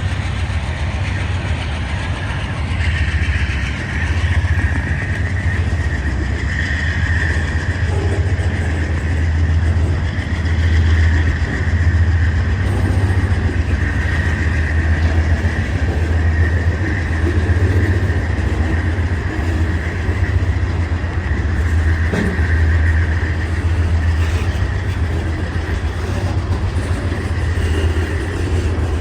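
Train rolling past: a steady low rumble that swells and eases every second or two as the cars go by.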